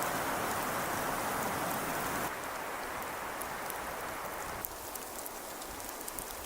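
Steady rain-like hiss with scattered faint ticks, dropping a little in level twice.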